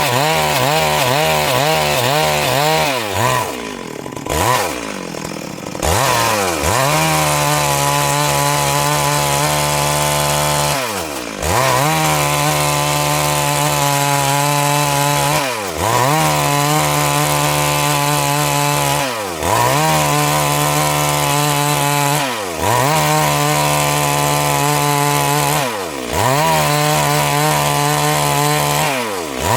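Stihl MS 382 two-stroke chainsaw running at high speed while sawing wood. The engine speed dips briefly and picks back up about every three to four seconds, after a few seconds of quick revving and a short spell at lower speed near the start.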